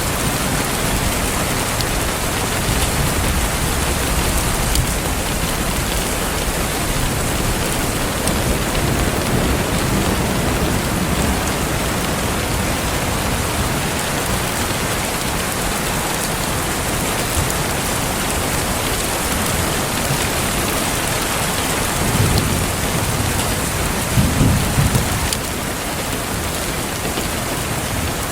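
Steady rain falling, with low rumbles of thunder, the strongest near the end.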